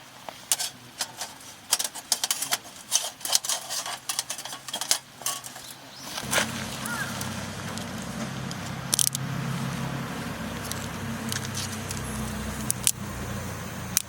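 Metal camp cookware and utensils clinking and rattling as they are handled. About six seconds in, a steady low hum starts and runs on under a few more clinks.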